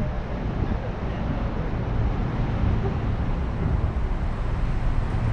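Steady engine and road rumble of a Dodge Polara cruising along a street, heard from inside the car.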